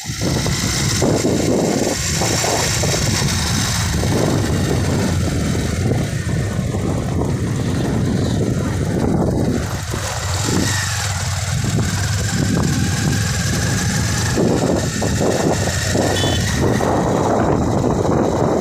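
A motor vehicle travelling along a road, its engine and road noise steady throughout, mixed with wind noise.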